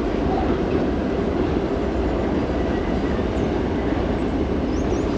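A train running past with a steady rumble of engine and wheels on the rails.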